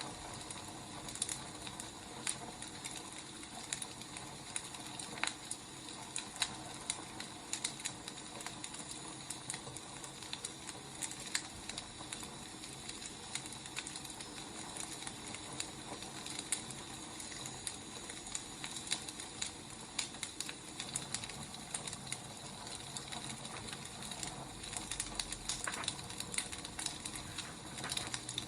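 Wood fire crackling: a steady hiss with irregular sharp pops and snaps throughout.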